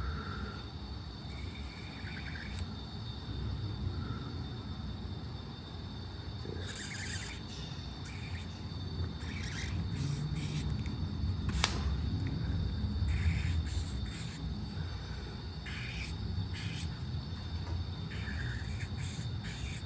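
Short scratchy strokes of a drawing pen on paper, coming every two or three seconds, with a single sharp tap about midway. Under them runs a steady low room hum with a faint high whine.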